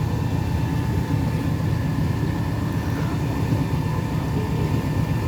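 Tour boat's engine running steadily on the river, a low even drone with a faint higher hum over it.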